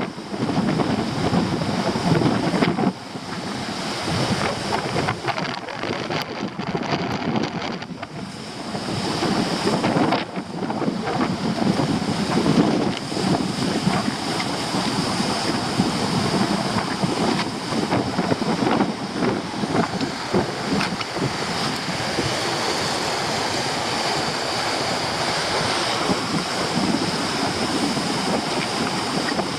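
Stormy sea surf breaking and washing with strong wind buffeting the microphone, a loud continuous rushing that surges and eases, dipping briefly twice in the first several seconds.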